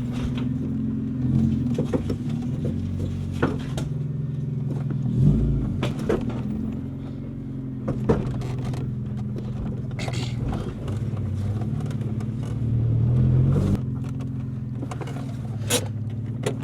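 Subaru Impreza's freshly installed flat-four engine running steadily, with a few short clicks and knocks over it.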